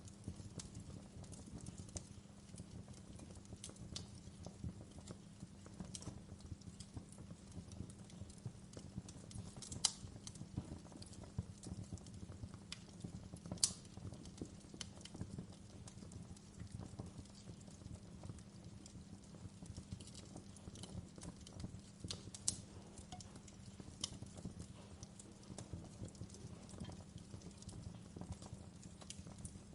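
Wood fire crackling: a steady low rumble of burning with irregular sharp snaps and pops, a few of them louder.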